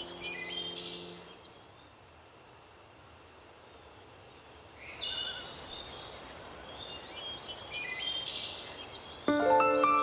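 Wild birds chirping and calling in short bursts over a faint, even hiss of gentle wind, with a quiet gap of a few seconds in the middle. A soft sustained music chord fades out about a second in, and a louder one enters near the end.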